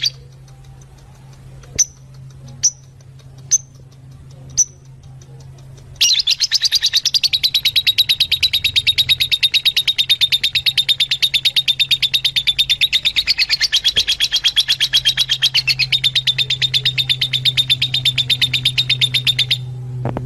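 Fischer's lovebirds calling: four single sharp chirps, then a loud run of rapid, evenly repeated high chirps lasting about thirteen seconds that stops suddenly near the end. A steady low hum runs underneath.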